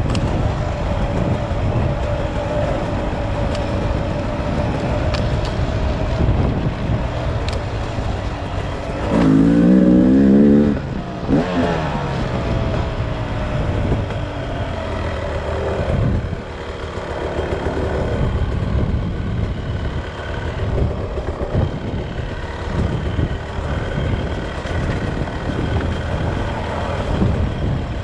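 Beta RR 300 single-cylinder two-stroke engine running and revving, its pitch rising and falling with the throttle. About nine seconds in it revs hard and loud for about two seconds, then the pitch drops away.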